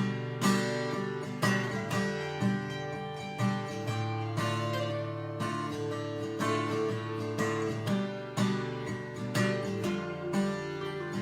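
Acoustic guitar strummed, with a strum about once a second over ringing chords, in a slow, dark song with a Texan feel.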